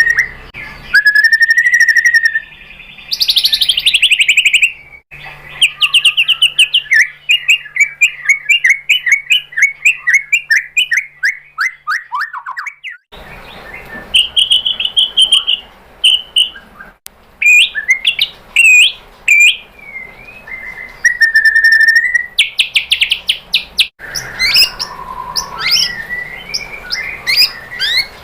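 White-rumped shama (murai batu) singing a varied song of clear whistled notes, rapid trills and quick chattering runs. One long run of quick notes slides down in pitch. The sound cuts abruptly several times, as separate recordings are spliced together.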